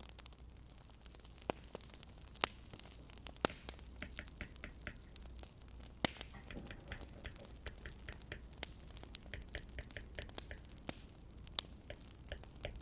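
Burning firewood crackling: irregular sharp pops and snaps, a handful louder than the rest, over a faint steady low hum.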